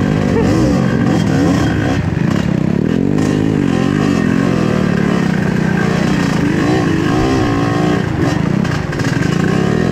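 Trail motorcycle engine running hard, its pitch rising and falling again and again as the throttle is opened and eased.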